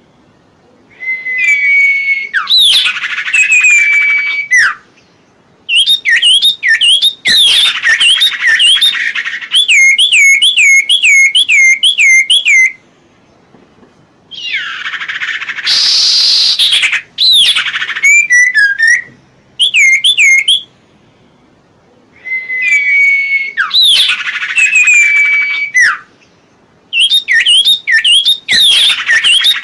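Serpu (cipo) songbird singing loud phrases of rapid, repeated whistled notes, each phrase lasting a few seconds with short pauses between. About halfway through comes one harsher, rasping phrase.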